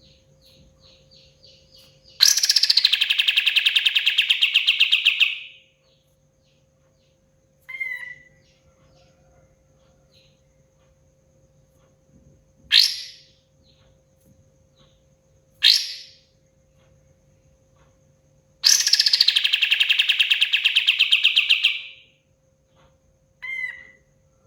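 Kapas tembak songbird singing. Two long, loud, rapid trills of about three seconds each are separated by several short, sharp single calls, over a faint steady hum.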